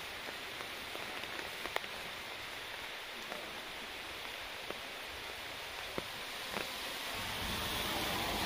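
Steady patter of light rain in a forest, with a few sharp drips or clicks. A low rumble comes in near the end.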